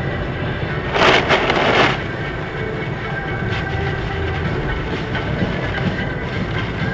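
Steady rumble of a moving vehicle, broken about a second in by a loud, noisy crash lasting about a second.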